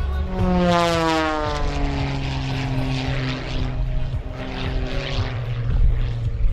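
Single-engine aerobatic propeller plane, an Extra 330SC, making a close, fast pass. Its engine and propeller note drops steadily in pitch over about four seconds as it goes by, with a harsh propeller rasp at its closest, about a second in.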